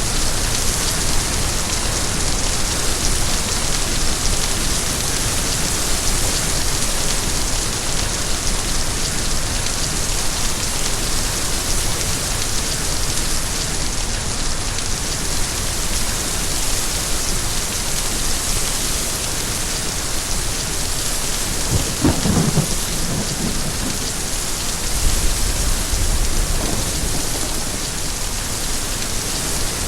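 Steady heavy rainfall hissing on surfaces. About two-thirds of the way through, a clap of thunder breaks through, followed a few seconds later by a deep low rumble.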